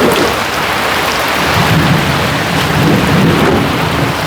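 Heavy rain falling steadily, with a low rumble coming in about one and a half seconds in and running for a couple of seconds.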